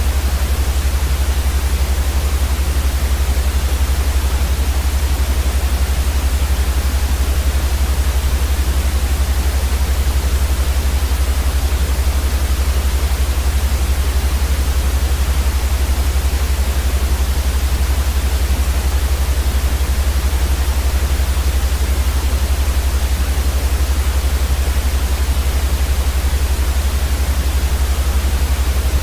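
Steady sleep white noise: an unchanging hiss with a strong, deep rumble underneath that is the loudest part.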